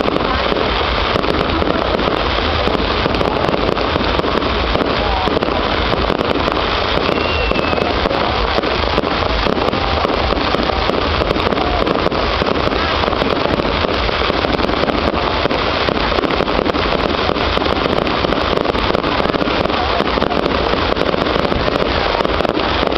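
Fireworks going off in a steady dense crackle of many small pops, with no single big bang, over crowd voices.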